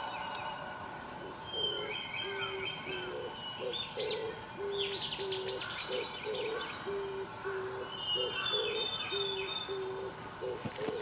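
Wild bird hooting a long series of short, low notes at one pitch, about two a second, starting about two seconds in, while songbirds sing higher chirping phrases and trills over it.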